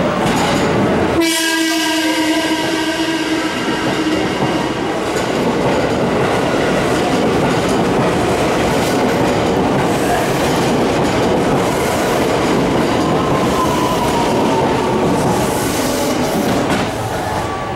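JR West 223-series electric train sounds its horn once, a steady blast of about two seconds starting about a second in. The train then runs along the platform with its wheels clattering on the rails.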